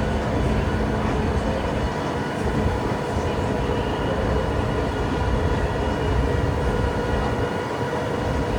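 Open-sided parking tram running at speed, heard from on board: a steady low rumble of the tow vehicle and tyres on the road, with faint steady whining tones over it.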